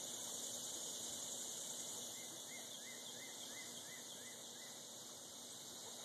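Steady high outdoor hiss, with a small bird repeating a short chirp about eight times, roughly three a second, starting a little over two seconds in.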